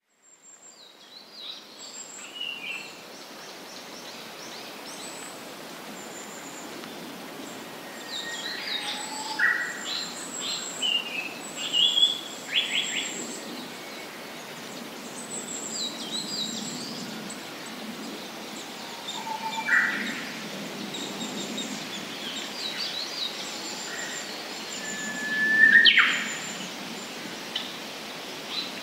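Japanese paradise flycatcher singing in woodland, with scattered chirps and whistles from other birds over a steady background hiss; the loudest call, a quick falling sweep, comes near the end.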